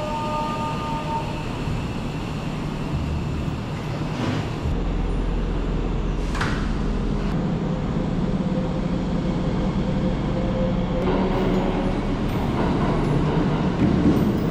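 Electric trains standing at an underground station platform: a steady low hum of train equipment and platform noise. There is a brief rising tone about six seconds in, and pitched tones join and grow louder in the last few seconds.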